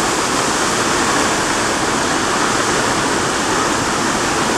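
Waterfall crashing water, a steady dense rush.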